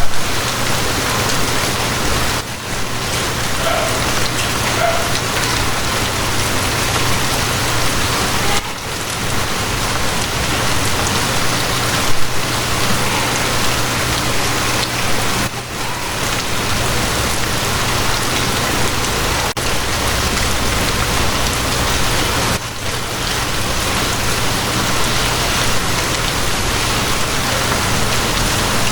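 Rain falling steadily, an even hiss spread across the whole range, with a low steady hum underneath. The rain dips briefly about every seven seconds.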